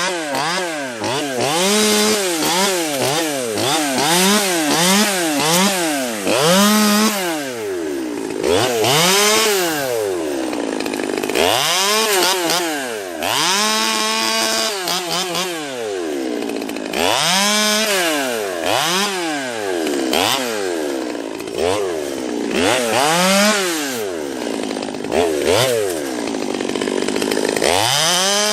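Two-stroke Stihl chainsaw with a 16-inch bar cutting into a tree trunk, its engine pitch rising and dropping back again and again as the throttle is worked and the chain bites: about once a second at first, then in slower, longer pulls.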